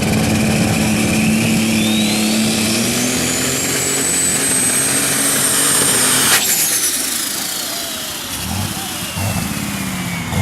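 Pulling vehicle's engine running hard under load with a high whine that climbs for several seconds and holds. About six seconds in a sharp crack is heard, the engine sound drops away, and the whine falls slowly: the engine has been shut down at the end of the pull and is spooling down.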